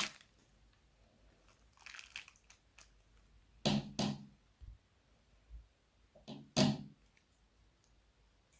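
Slime being squished and pressed by hand, giving a few separate short crackly squishes with quiet gaps between them.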